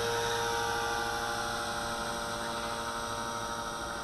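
Walkera V450D01 electric RC helicopter in flight, its motor and rotor blades giving a steady buzzing whine with several overtones. The sound slowly gets quieter as the helicopter drifts farther off.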